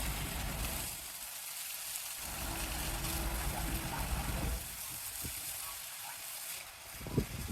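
Water truck's high-pressure spray hitting the foundation ground, an even hiss, with the truck's engine rumbling low underneath that comes and goes.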